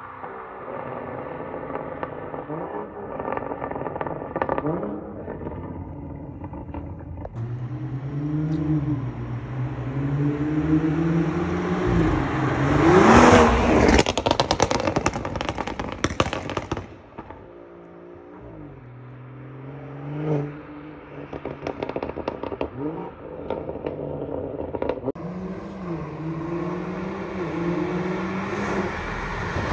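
Tuned BMW M240i's turbocharged straight-six accelerating hard through several upshifts, its pitch climbing and dropping back at each shift. It is loudest about halfway, where a rapid burst of exhaust pops and crackles comes as it passes, then it dies away briefly and a second hard run follows with more shifts and scattered crackles.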